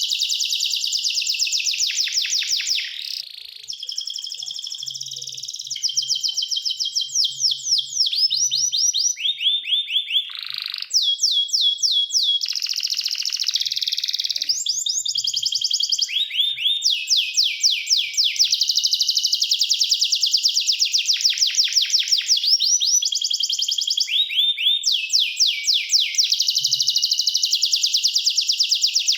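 Domestic canary singing a continuous song of rapid trills, each phrase a fast run of identical notes, switching to a new trill every couple of seconds, with a lower, rolling phrase about ten seconds in.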